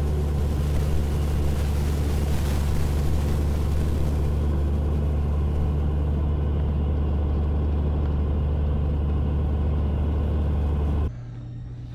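Cessna 182's six-cylinder piston engine and propeller running with a steady low drone as heard in the cabin, cutting off suddenly about eleven seconds in.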